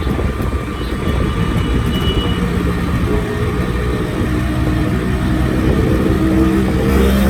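Two-stroke Yamaha RX-series motorcycle engine running.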